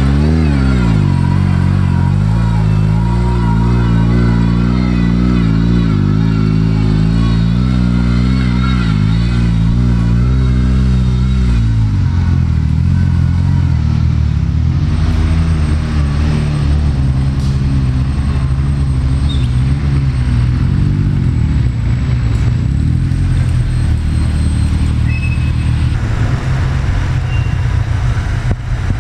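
Sporting trials car engine revving up and down under load, then settling into a steady, lower run about twelve seconds in.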